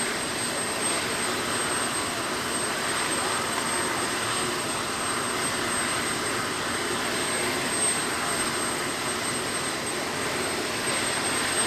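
Jet aircraft engine running steadily: an even rushing noise that holds at one level, with no rise or fall.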